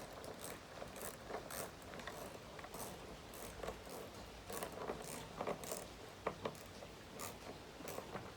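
Socket ratchet clicking in short, irregular runs while the screws of a chainsaw cover are tightened.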